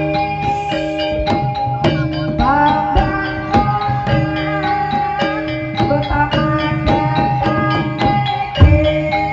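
Javanese gamelan music for a jaran kepang (ebeg) dance: metallophones playing a repeating melody over kendang hand-drum beats, with a singer's gliding vocal line.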